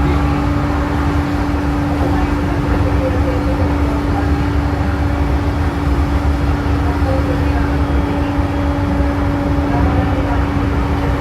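E233-series electric commuter train running at steady speed, heard from inside the car: a continuous rumble of wheels on rail with a constant humming tone over it.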